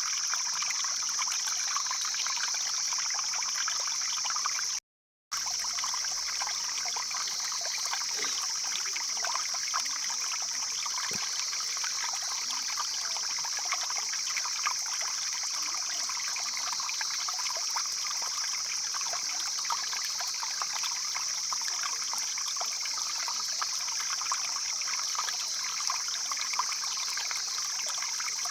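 Stream flowing steadily, a continuous babble of water with a steady high hiss over it; the sound cuts out completely for about half a second around five seconds in.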